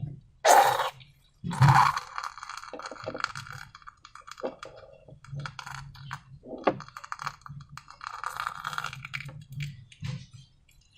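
Slime and transparent balloons handled by hand: an irregular run of sticky clicks and rustles, with two louder sharp bursts in the first two seconds.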